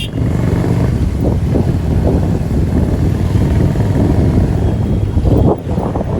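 Motorcycle riding along a highway: the engine is running under a loud, steady rumble of road and wind noise. The rumble dips briefly near the end.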